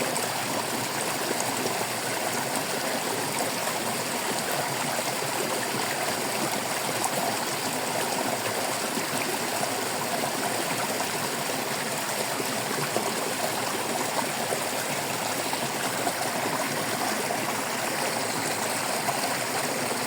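Stream water trickling and babbling, a steady, even rush of flowing water.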